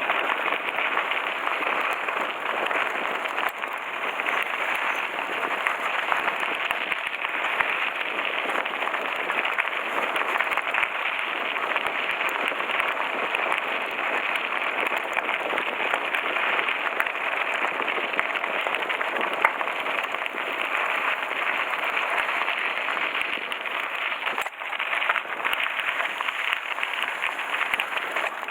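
Mountain bike tyres rolling fast over a loose gravel road while coasting downhill: a steady crackling hiss of stones under the tyres, with scattered small clicks and rattles.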